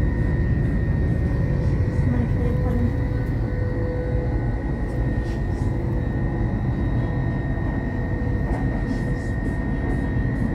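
LNER intercity train running at speed, heard from inside the carriage: a steady low rumble with a constant high whine over it, and a few faint clicks.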